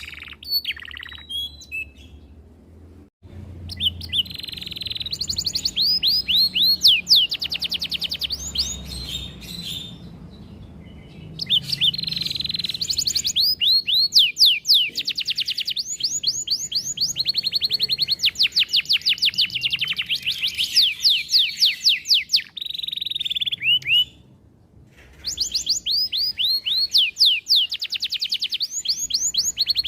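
Domestic canary singing long phrases of fast repeated trills and rolls, with short pauses about three, ten and twenty-four seconds in.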